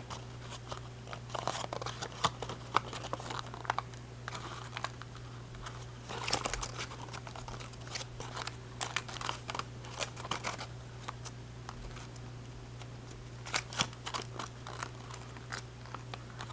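Origami paper crinkling and crackling in irregular bursts as it is pinched, sunk and creased by hand, over a steady low hum.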